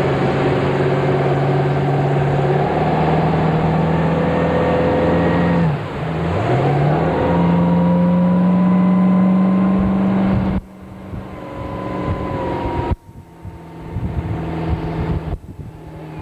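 Motorboat engine running steadily; about six seconds in its pitch drops sharply and climbs straight back up as the throttle is eased and reopened. In the second half the rushing noise over the engine cuts out abruptly a few times while the engine note carries on.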